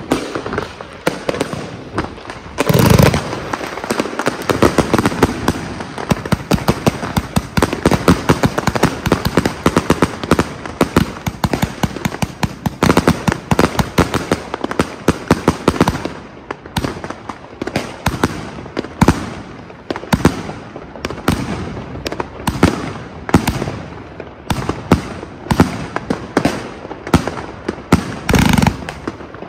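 Consumer firework cakes firing: a dense, unbroken run of cracks and bangs, several a second, with heavier booms about three seconds in and again near the end.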